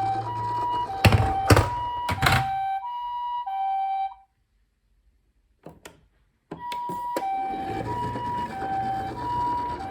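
Toy ambulance's electronic two-tone siren alternating steadily between two pitches. It cuts off about four seconds in and starts again about two seconds later, with sharp plastic knocks and clicks around the stop and restart.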